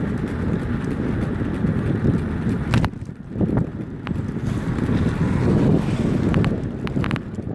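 Wind buffeting the microphone as a rumbling rush while riding, with a few sharp clicks and knocks over it.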